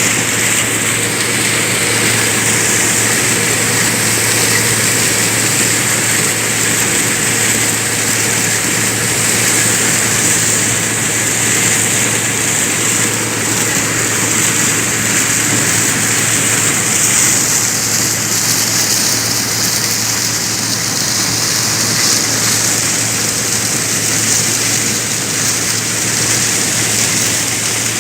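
Corn thresher running steadily: a constant low machine hum under a loud, even hiss.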